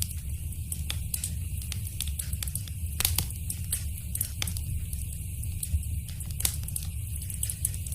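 Wood fire in a fireplace crackling, with frequent sharp pops over a steady low rumble. Two louder pops stand out, about three seconds in and again past six seconds.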